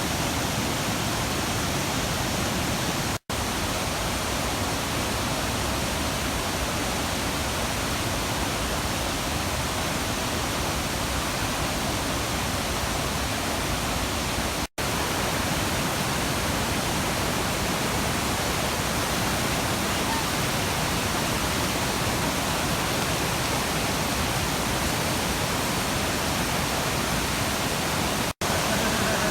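Steady rushing of river water pouring over a waterfall, broken three times by a momentary drop to silence.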